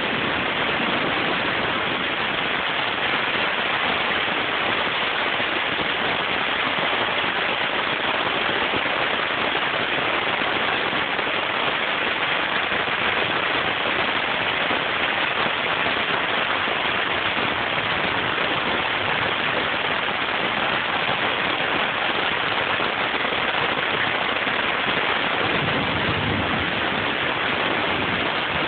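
Rain falling steadily on a lawn and trees: a constant, even hiss that never lets up.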